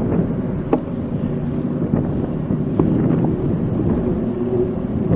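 Mountain bike being ridden: wind rushing over the handlebar-mounted camera's microphone with a steady rumble, and a few sharp clicks and rattles from the bike.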